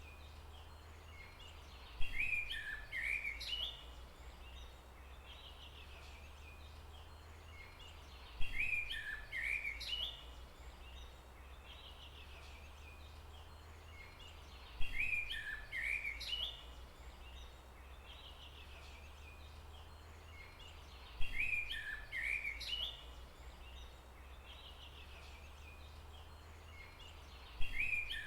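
A bird's phrase of quick chirps, each opening with a sharp click, repeating the same way about every six seconds over a steady low hum. It sounds like a looped forest-ambience recording.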